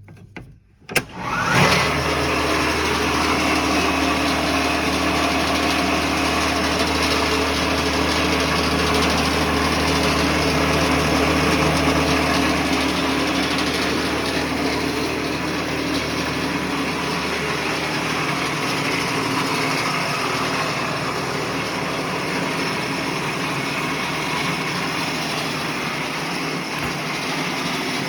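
Sawmill edger switched on about a second and a half in: its electric drive spins up and then runs steadily with a loud hum and whir.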